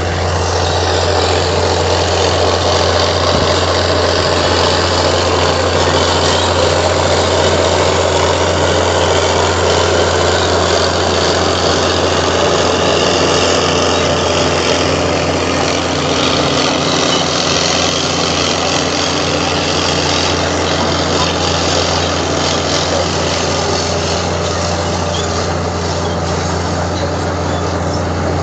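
Heavy diesel engine of earthmoving machinery running steadily: a constant low drone under dense, even mechanical noise.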